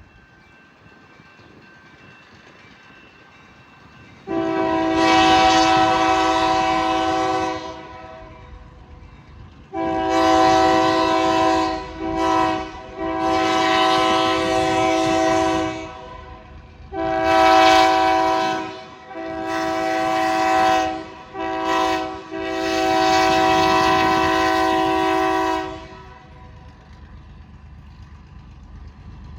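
Freight locomotive's multi-note air horn blowing a series of blasts in the grade-crossing pattern, long, long, short, long, sounded twice, over the low rumble of the passing train.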